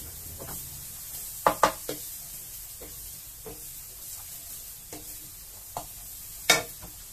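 Chili paste sizzling in a nonstick wok as a wooden spatula stirs it, with a steady hiss and a few sharp knocks of the spatula against the pan, a cluster of three about a second and a half in and a loud one near the end.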